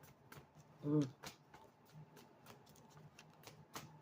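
Faint, irregular clicks and light taps, with a short hummed voice sound about a second in, over a low steady hum.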